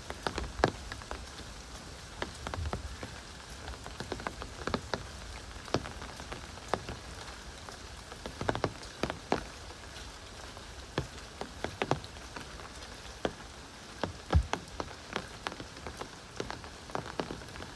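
Heavy rain falling steadily, with many irregular close drops tapping sharply, a few of them loud.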